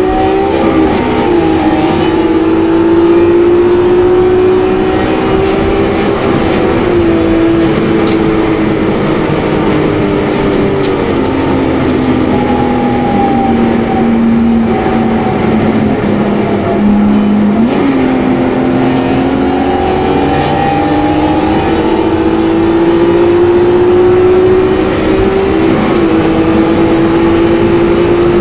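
Supercharged BMW E46 M3's straight-six running hard at high revs, heard from inside the car at full throttle. The engine note rises with quick breaks at gear changes near the start and around six seconds in. It sags for several seconds in the middle, then climbs steadily again over the last ten seconds.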